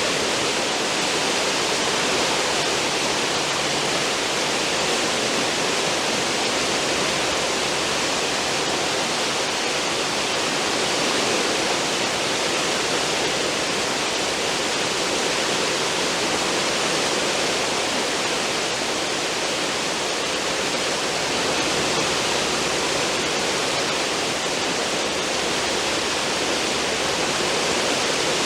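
Cruise ship's wake churning and rushing: a steady, loud wash of turbulent water behind the stern.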